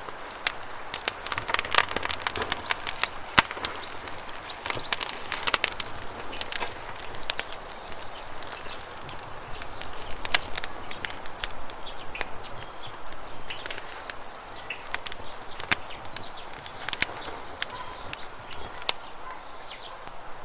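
Campfire crackling with sharp, irregular pops, thickest in the first few seconds, over the steady rush of a river. A few short bird chirps come in the second half.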